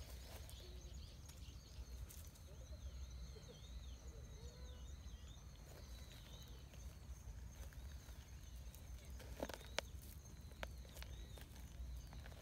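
Outdoor ambience with small birds chirping in repeated short, arching high calls, over a faint steady high-pitched tone and a low rumble. A few sharp clicks come about nine to ten seconds in.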